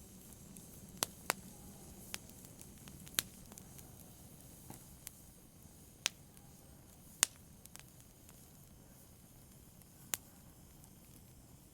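Wood fire burning in a fireplace: a soft low hiss broken by sharp, irregular crackles and pops, about nine in all, the loudest about seven seconds in.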